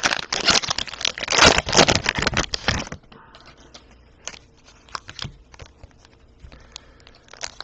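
Plastic cellophane wrapper of a trading-card pack crinkling and tearing as it is opened, dense for about three seconds, then quieter scattered rustles and clicks of cards being handled.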